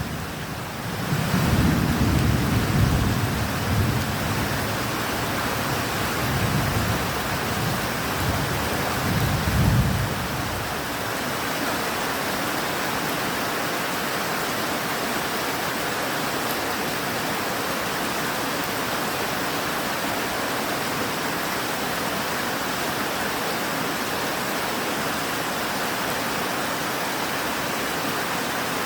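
Steady rain with thunder rumbling in several low rolls that die away about ten seconds in, leaving only the even hiss of the rain.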